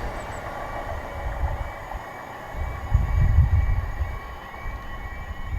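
A train running past on the track, its rumble dying away as it moves off.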